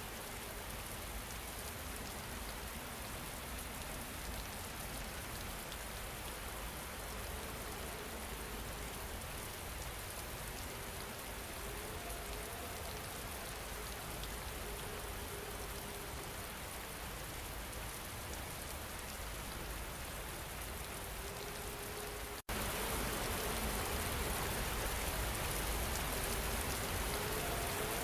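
Steady rain falling, with a few faint held tones underneath. About 22 seconds in it cuts out for an instant and comes back a little louder.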